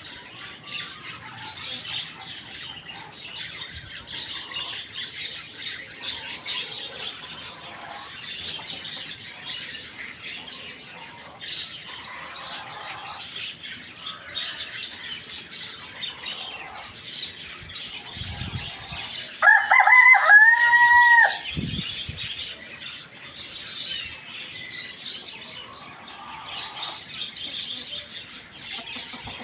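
Many small birds chirping continuously, with a rooster crowing once, loudly, about two-thirds of the way through: a single crow of about two seconds that rises, holds and drops away.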